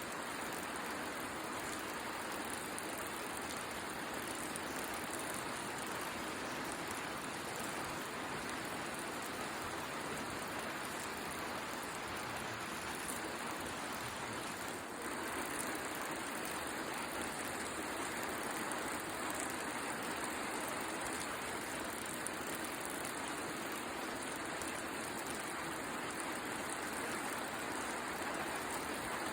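Steady rain falling, with the faint crackle of a wood bonfire.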